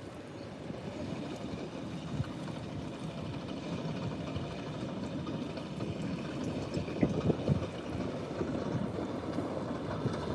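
Low, steady rumble of wind and surf on an ocean beach, with gusts buffeting the microphone about seven seconds in.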